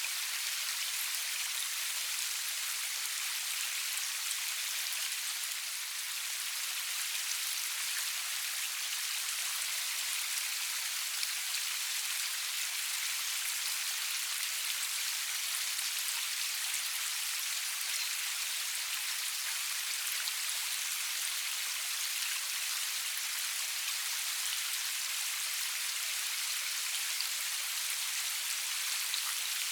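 Steady rain falling, an even high hiss of many fine drop patters with no thunder and no low rumble.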